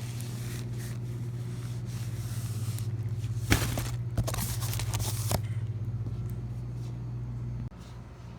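A running vehicle engine with a steady low hum, broken by a few sharp clicks and knocks in the middle. The hum drops off suddenly near the end, leaving a quieter hum.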